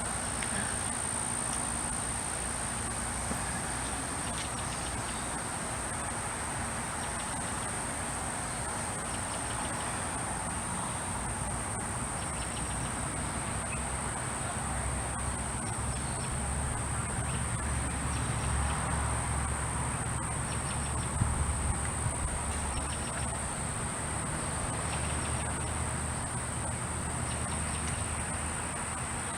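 Steady, high-pitched chorus of insects such as crickets. A low rumble swells in the middle and fades again, with a few faint knocks.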